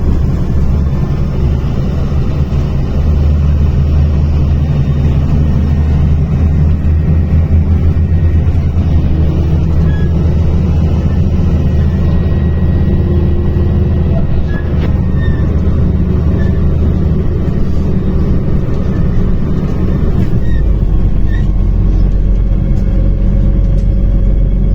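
MAZ-105 articulated city bus's diesel engine running under way, with a loud, steady low drone; about twenty seconds in the engine note drops abruptly to a lower pitch, as at a gear change.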